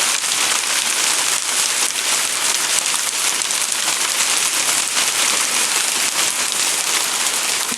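Hailstones falling in a heavy shower: a dense, steady patter of countless small ticks as they strike the ground and nearby surfaces.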